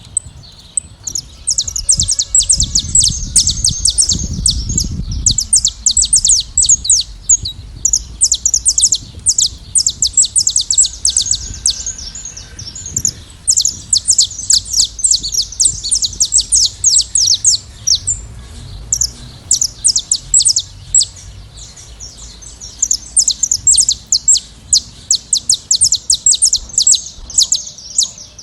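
A flock of saffron finches singing together: a dense, continuous run of rapid, overlapping high chirps with a few short pauses. A low rumble sits under the song between about two and five seconds in.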